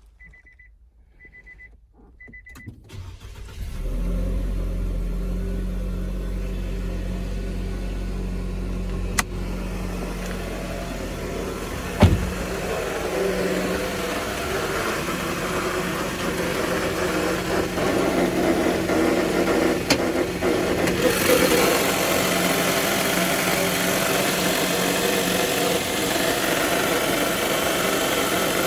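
Four short electronic beeps, then a Nissan Serena C26's engine starts about three seconds in and runs at a steady idle, carrying the abnormal noise from its alternator (generator). About twenty seconds in the sound turns brighter and louder.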